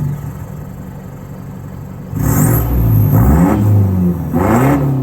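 Mazda BT-50's 4JJ3 four-cylinder turbo diesel breathing through a 3-inch turbo-back exhaust with resonator. It idles, then is revved twice, first about two seconds in and again near the end, each rev climbing and falling back.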